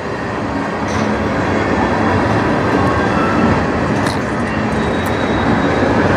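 Freight train's tank cars rolling past, a steady noise of steel wheels running on rail, with a few faint ticks.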